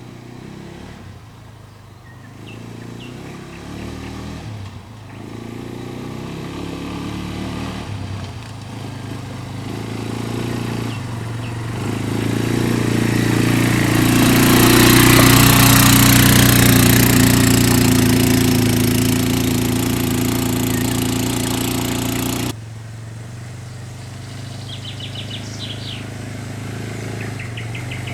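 Quad bike engine running while being driven. It grows louder toward the middle, with a rush of noise over the engine hum, then drops abruptly to a quieter running sound about 22 seconds in.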